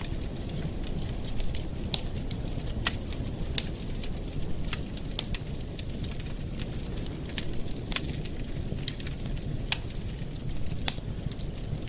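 Campfire burning with a steady low rumble of flames and irregular sharp crackles and pops of the wood.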